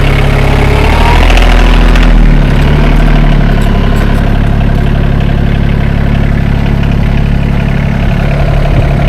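Rural King RK24 subcompact tractor's diesel engine running steadily; its note shifts about two seconds in and then holds even.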